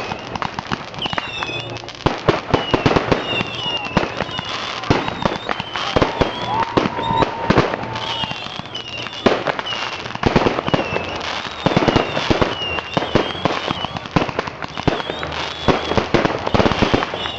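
Fireworks going off in a fast, continuous string of bangs and crackles, with high wavering tones sounding over them.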